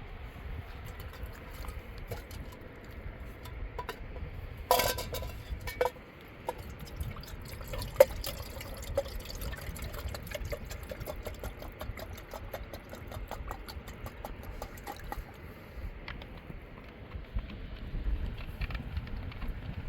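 Water splashing and trickling over a steady low rush, with many small ticks. There is a louder burst about five seconds in and a sharp click about eight seconds in.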